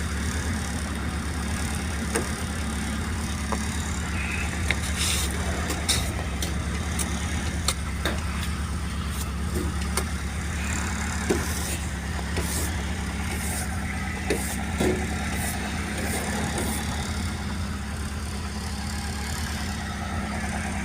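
GAZelle van engine idling steadily, with scattered short clicks and knocks over it.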